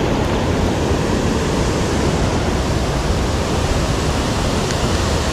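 Creek water rushing steadily over riffles or a small falls, an even, unbroken rush.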